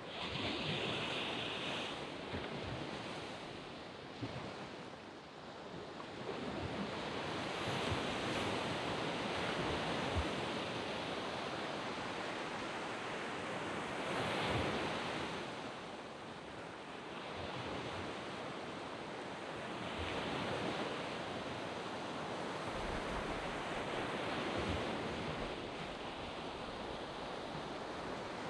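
Surf breaking on a sandy beach: a continuous wash of waves that swells and eases again every five or six seconds.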